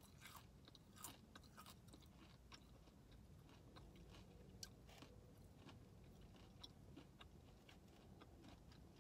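A person chewing a mouthful of fried chicken tender, close to the microphone: faint, irregular small crunches and mouth clicks over a low steady background hum.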